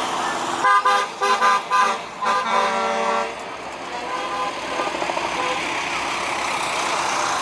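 Truck air horns tooting in several short blasts over the first three seconds, then a steady rumble of passing trucks.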